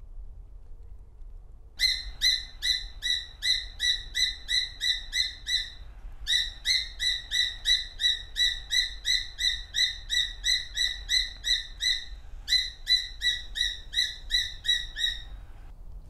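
A bird calling in long runs of sharp, evenly spaced, high notes, about three a second, repeated insistently in three bursts with brief breaks between them.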